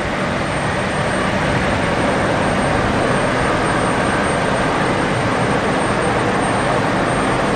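Jet airliner engines running, a steady rushing noise that builds slightly over the first couple of seconds and then holds.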